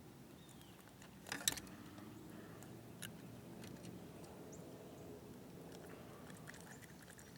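A few faint clicks and knocks, the loudest a short cluster about a second and a half in and another near three seconds, over a low steady background.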